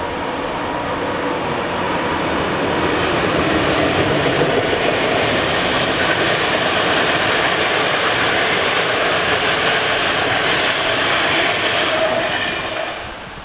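Passenger train hauled by an electric locomotive passing on the line below: a loud, steady rush of wheel and rail noise that builds over the first few seconds, holds while the coaches go by, then drops away sharply near the end.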